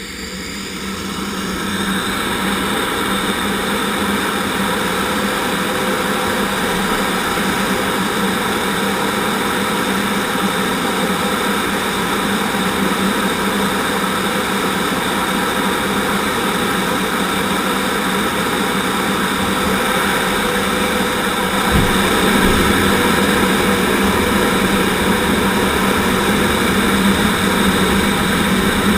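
Twin General Electric J85 turbojets of a T-38 Talon running loud and steady, heard from the cockpit during a formation takeoff, with a steady low hum under a wide jet rush. The sound builds over the first couple of seconds. A single thump comes about 22 seconds in, and after it the engines run a little louder.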